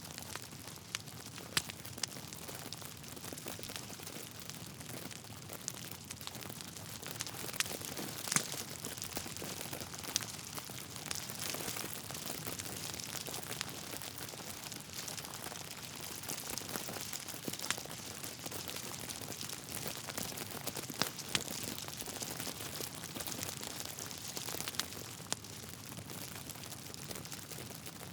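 Logs burning in a fireplace: a dense, steady crackle with scattered sharper pops, the loudest about eight seconds in.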